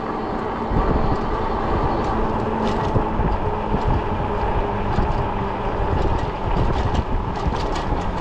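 Wind buffeting the microphone over the steady rumble of an Ecotric 20-inch fat-tire e-bike rolling along at riding speed.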